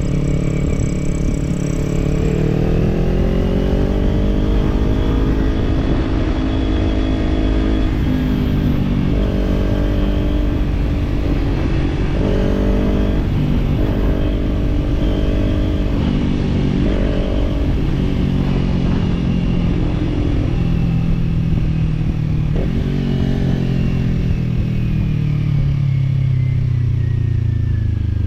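Kawasaki parallel-twin motorcycle with an aftermarket slip-on exhaust under way: the engine note rises as it accelerates over the first few seconds, holds with several brief dips in the middle, then falls steadily near the end as the bike slows.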